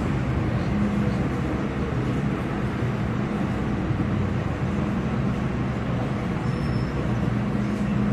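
MTR Kwun Tong Line M-Train running on the line: a steady rumble of wheels on track with a low hum underneath.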